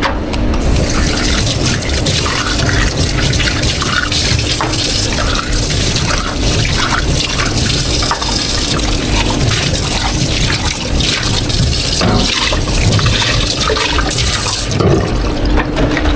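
Water running steadily from a tap into a sink, turned off near the end, with small clinks of cups and utensils underneath.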